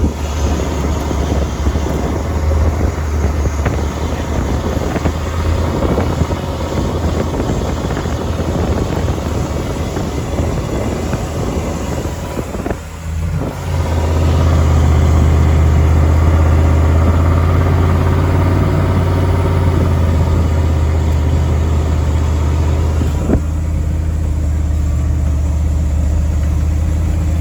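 7.3-litre IDI turbo diesel V8 running under load as the truck plows through deep snow. The drone dips briefly about halfway through, then comes back steady and strong.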